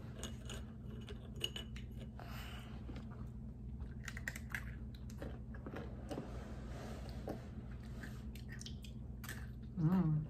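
Close-up eating sounds: chewing of chocolate snacks, with irregular small sharp mouth clicks throughout.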